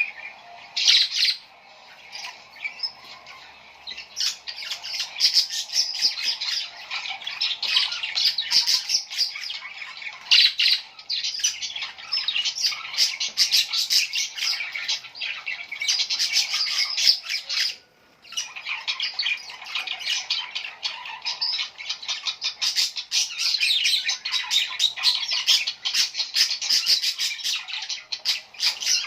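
Many small birds chirping and twittering in a dense, continuous chatter, with a brief pause about eighteen seconds in.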